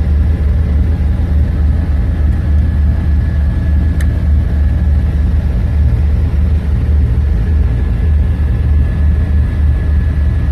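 1962 Ford Ranchero running: a heavy, steady low rumble with a thin, steady high whine over it, and a single sharp click about four seconds in.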